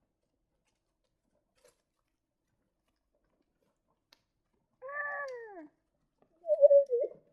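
A domestic cat meowing twice: a falling meow about five seconds in, then a louder, wavering meow near the end.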